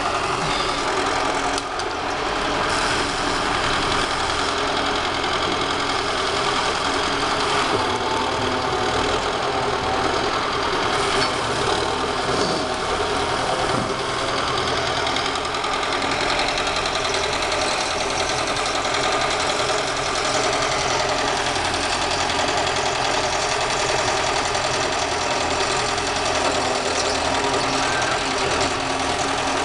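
An engine running steadily without letting up, typical of machinery at a pipe-repair work site.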